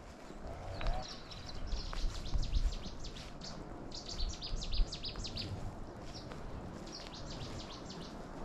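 Small birds chirping in quick runs of short, high notes, coming in several bursts over a low rumbling background.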